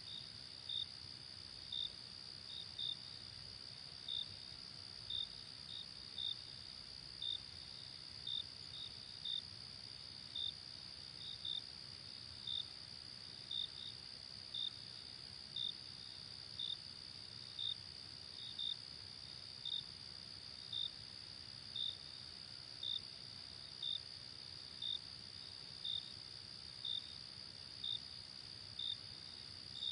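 Crickets: a steady high trill with short chirps on top, about one a second, some coming in pairs.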